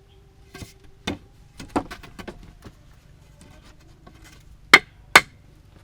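Irregular sharp knocks and taps of hard objects: several light ones, then two loud strikes about half a second apart near the end.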